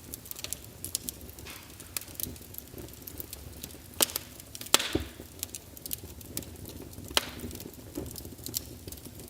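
Burning logs in a fireplace crackling: irregular sharp pops and snaps over a low steady rumble of the flames, with a few louder snaps near the middle.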